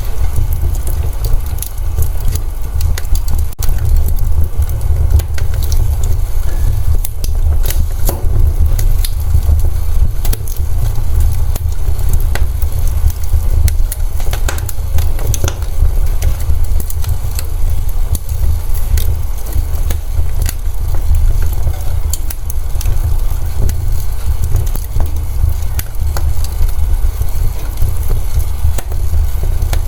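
Wood fire in a fireplace crackling, with irregular sharp pops and snaps scattered over a steady low rumble of the burning fire.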